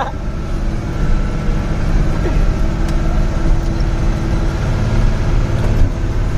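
Truck engine running steadily while driving, with continuous road rumble.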